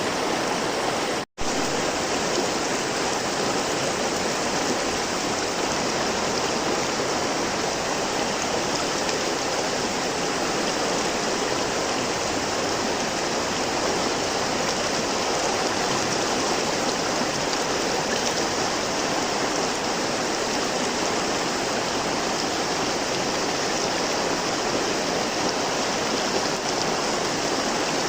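River water flowing, a steady even rushing. About a second in, the sound drops out for a split second.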